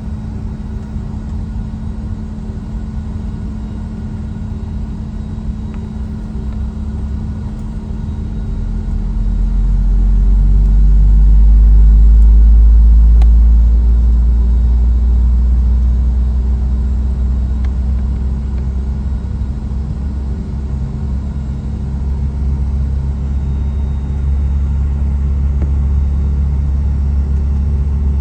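Cabin noise of a Boeing 717-200 on the ground with its rear-mounted Rolls-Royce BR715 engines running: a steady hum under a deep engine rumble that swells about ten seconds in and then eases off, as thrust is briefly raised.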